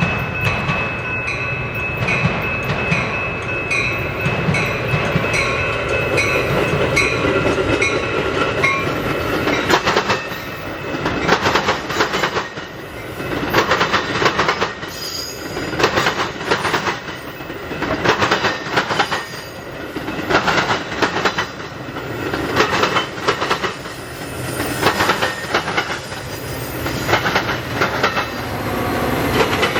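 A train passing close by: a low locomotive rumble with a regularly pulsing ringing tone that fades out about nine seconds in, then the clickety-clack of railcar wheels knocking over rail joints in repeated clusters.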